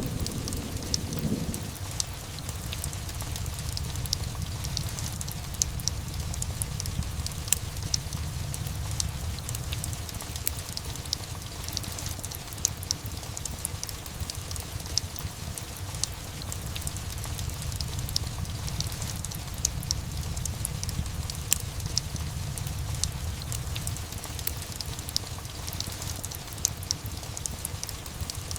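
Steady rain with scattered sharp crackles and pops from a fireplace, over a low rumble that swells and eases. A louder low thunder rumble fades out in the first second or two.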